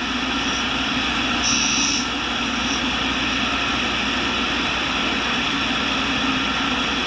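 Tool and cutter grinder running steadily while an end mill is ground, with a few brief high-pitched rasps in the first three seconds.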